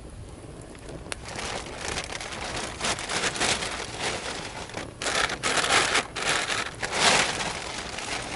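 Waves washing up the shore: a hiss of surf that builds about a second in and swells several times before easing near the end.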